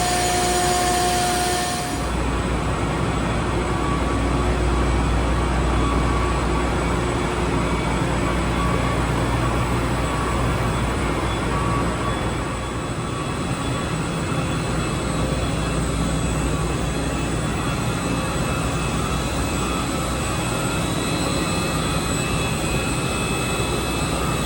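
Loud, steady machinery noise of the kind measured in a high-noise industrial area, with a deep rumble underneath. About two seconds in the sound changes abruptly to a heavier low rumble with less high hiss.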